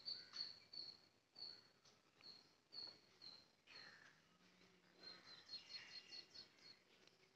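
Faint bird calls: a short, high chirp repeated about twice a second, turning into a quicker run of notes a little past halfway, over faint outdoor background noise.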